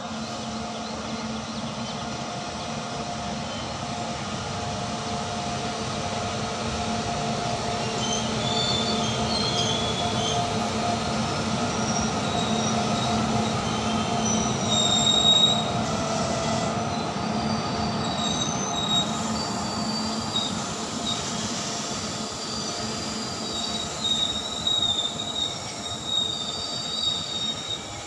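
Freight train of loaded coal wagons rolling past behind two WAG-9 electric locomotives: a steady rumble of wheels on rail with a low hum. From about a third of the way in, short high-pitched wheel squeals come and go.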